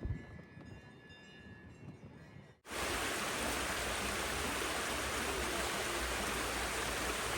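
Rushing water from a mountain stream or waterfall: a loud, steady, even hiss that starts suddenly about two and a half seconds in. Before it there is only faint wind.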